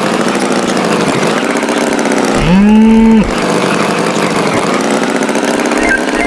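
Tractor engine sound effect running steadily, broken about two and a half seconds in by one loud, slightly rising cattle moo lasting under a second. Near the end, a quick repeating high beeping starts.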